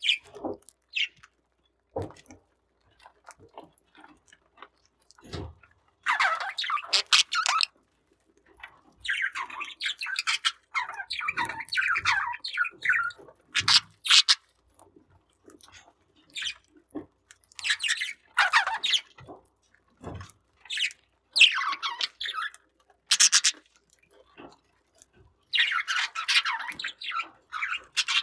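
Budgerigars chirping and chattering in irregular bursts, with a few sharp taps in between.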